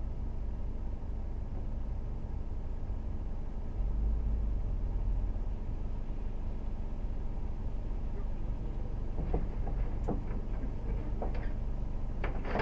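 Low, steady rumble of off-road vehicles' engines at low revs, swelling about four seconds in as the UAZ Patriot ahead pulls away down the muddy track.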